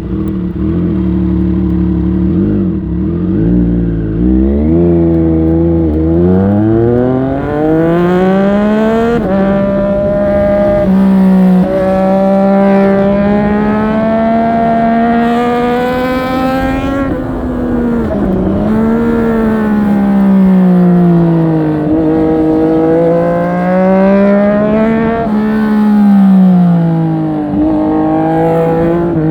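Triumph Street Triple 765 RS's inline three-cylinder engine at hard acceleration. It runs low and steady for a few seconds, then revs up steeply, with quick drops in pitch at gear changes. After that the revs repeatedly fall and climb again.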